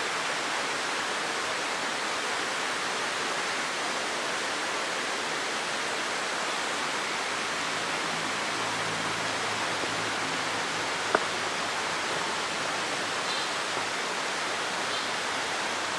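Steady rush of flowing water from the river at an old dam, with one sharp click about eleven seconds in.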